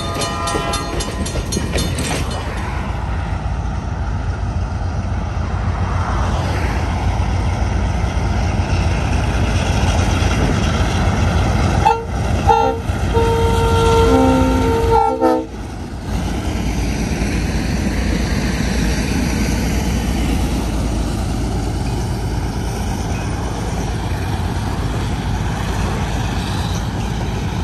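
Diesel locomotive running past with a steady low engine rumble. A bell rings rapidly for the first two seconds. About twelve seconds in, the locomotive's air horn sounds a short series of blasts lasting about three seconds.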